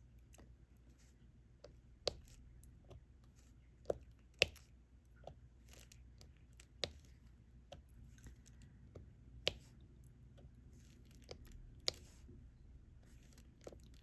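Diamond painting stylus picking up drills and pressing them onto the sticky canvas one at a time: irregular sharp taps and clicks a second or two apart, with soft rustling between.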